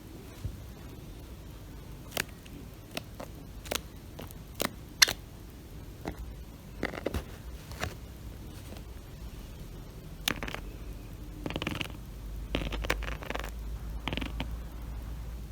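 A Java sparrow tapping on tatami mats with its feet and beak. Irregular sharp taps come about once a second, the loudest about five seconds in, then a busier run of scratchy taps near the end.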